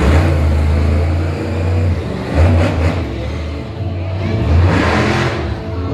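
Monster truck engine running loud and being revved, swelling in power three times.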